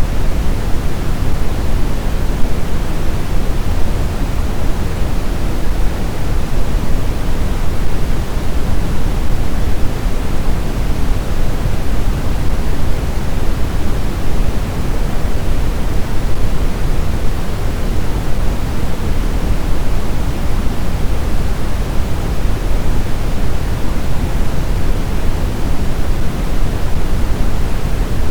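Blizzard wind blowing as a steady, deep rushing noise, even throughout, with no gusts or whistling tones.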